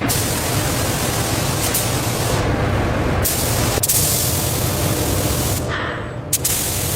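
Paint spray gun hissing in long steady passes. The hiss thins out briefly about two and a half seconds in and again near six seconds.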